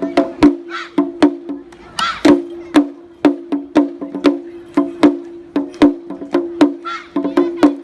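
Lion-dance (shishimai) festival music: sharp wooden clacks in a quick, even rhythm, about two to three a second, over a steady pitched tone.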